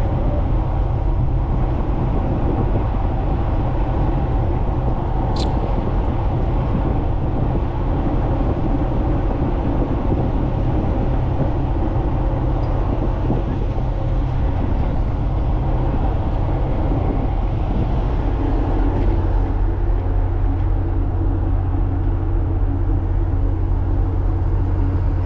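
Steady low drone of ship's diesel machinery with a constant hum. The hum grows stronger about eighteen seconds in, and there is a single brief click about five seconds in.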